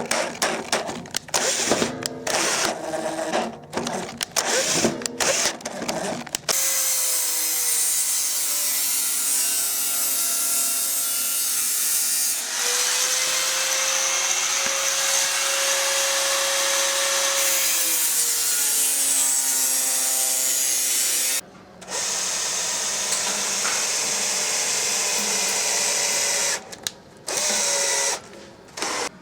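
Power drill boring holes in stainless-steel sheet. It starts and stops in short trigger bursts, then runs continuously, speeding up, holding steady and slowing down, with a short break before more brief bursts near the end.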